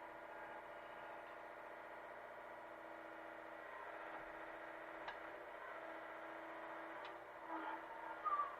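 Hitachi mini excavator's engine running steadily at a faint level, with two sharp clicks and a short louder clatter near the end.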